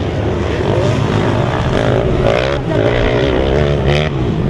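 Motocross motorcycle engines running loudly, their pitch wavering up and down as the riders work the throttle.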